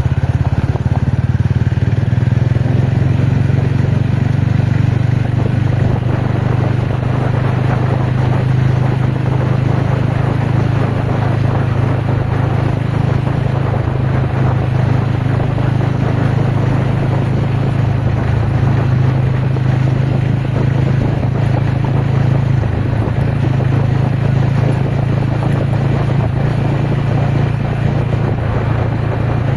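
TVS Ronin's single-cylinder engine running at a fairly steady pace while the motorcycle is ridden, with a constant rushing noise over it.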